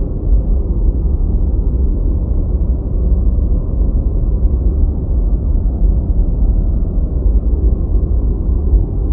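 Deep white noise playing steadily: an even rushing sound with its weight in the bass and almost nothing in the treble, with no changes or breaks.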